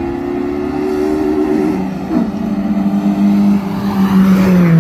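A racing car's engine at speed, approaching and passing close. Its note falls steadily in pitch and grows louder, dipping once about two seconds in, and is loudest as the car goes by near the end.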